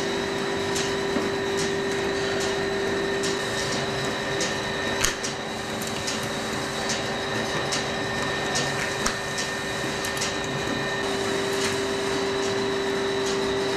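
Dairy machinery running steadily: a constant hum with a steady tone, overlaid by light regular clicks about one and a half times a second.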